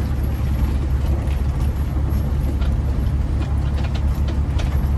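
Big rig truck's diesel engine running, a steady low drone, with a few light rattles.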